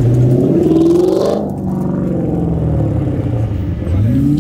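A car engine revving up as the car pulls away, its pitch climbing for about a second and a half before easing off, then climbing again near the end.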